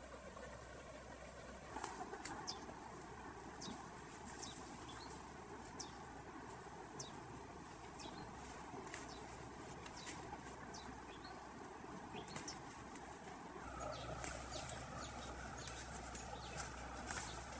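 Faint outdoor ambience of scattered short bird chirps over a steady high-pitched tone and a low hum. The background changes about three-quarters of the way through.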